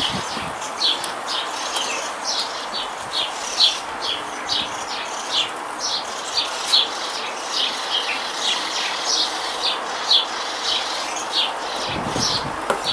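A small bird chirping over and over: short, high chirps at about two to three a second, over a steady background hiss. A few low thumps come in near the end.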